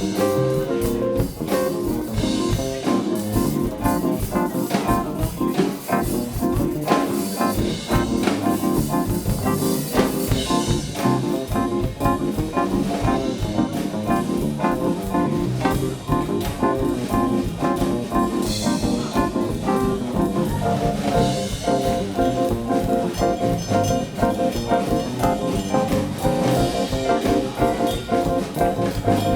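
Live band playing jazzy music with a drum kit keeping a steady beat.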